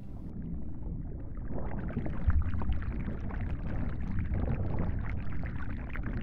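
Water splashing and lapping over a low, uneven rumble, with many small irregular crackles.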